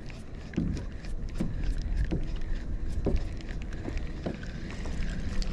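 Wind rumbling on the microphone of a kayak on open water, with water slapping the hull and many small clicks and knocks.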